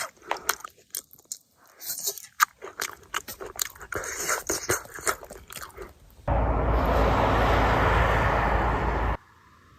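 Irregular crunching and small sharp clicks, close up, typical of someone chewing crusty naan, for about six seconds. Then a loud steady rushing noise starts suddenly, lasts about three seconds, and cuts off abruptly.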